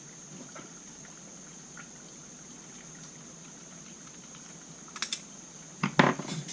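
Faint clicks of small carburetor parts being handled over a steady hiss. Near the end come a few sharp clatters as small screws drop onto the bench.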